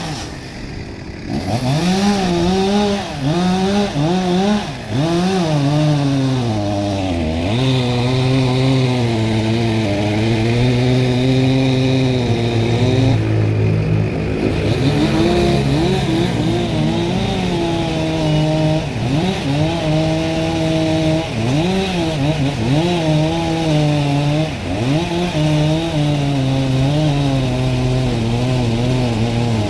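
Two-stroke chainsaw running hard and cutting wood. The engine revs up and drops back several times in the first few seconds, then holds long stretches at a lower, steady pitch as it bogs under load in the cut, with brief rev-ups in between.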